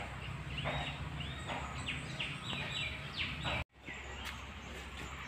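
A bird calling outdoors, a run of about six short repeated notes over some three seconds, above a steady low background noise.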